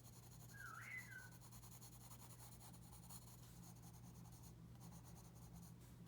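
Faint pencil scratching on paper during shading, with one short whistled chirp from a pet parrot about half a second to a second in.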